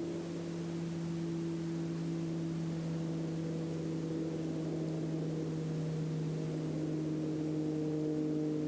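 A steady low hum with several higher overtones that drift slightly in pitch, over a faint background hiss.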